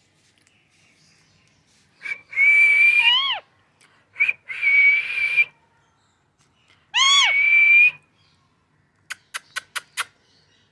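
Pet parrot giving three loud, long, steady whistling calls, the first ending and the last starting with a quick curl in pitch, followed near the end by five quick sharp clicks.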